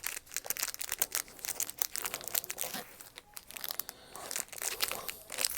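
Foil Pokémon card booster packs crinkling and rustling as they are handled and sorted through by hand, in quick irregular crackles.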